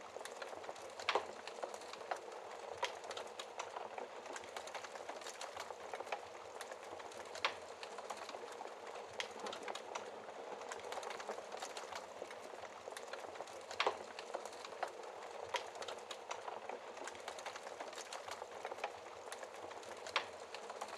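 Wood fire crackling in a fireplace: a steady hiss dotted with small pops, and a few sharper snaps, the loudest about a second in, near the middle and near the end.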